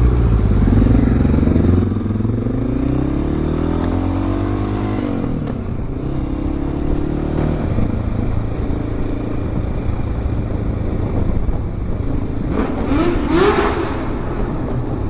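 Honda XR650L's single-cylinder engine pulling under acceleration, its note rising through two gears over the first several seconds, then running steadily at cruise. A brief rush of noise comes near the end.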